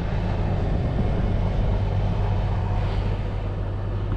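John Deere 8230 tractor engine running steadily with a constant low drone.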